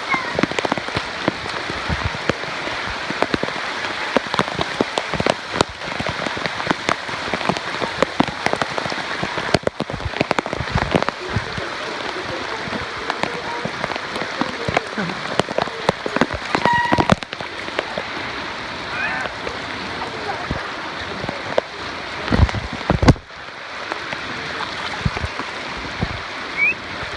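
Steady rain falling, with many sharp close drop ticks; a couple of louder thumps about 22 seconds in.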